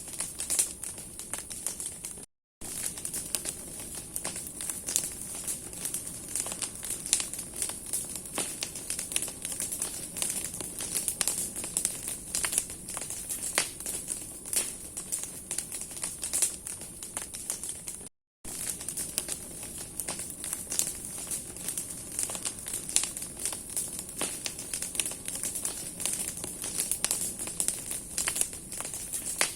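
Bonfire of branches burning: dense, irregular crackling and snapping of burning wood over a steady hiss of flame. The sound cuts out to silence for a split second twice.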